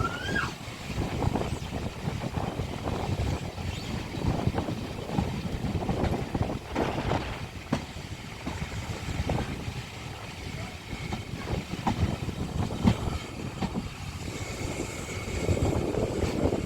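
Railway train's wheels clattering over the rail joints, with irregular knocks and thumps. A brief squeal comes right at the start and a faint high squeal near the end.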